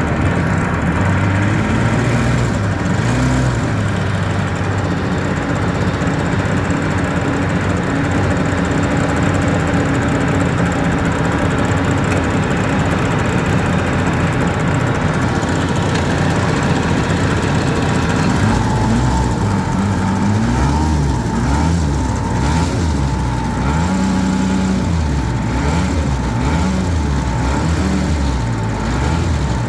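Jet boat's engine running under power, steady at first, then rising and falling in pitch again and again from about two-thirds of the way through as the throttle is worked.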